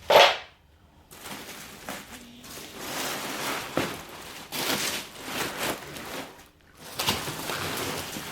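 Packing material being handled and rustled while exhaust parts are unpacked: irregular scratchy crinkling, with one brief loud noise right at the start.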